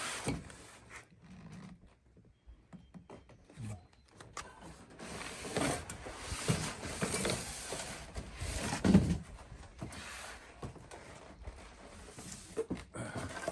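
Handling noise: objects being rubbed, scraped and knocked about, with scattered clicks, busiest in the middle and with the loudest knock about nine seconds in.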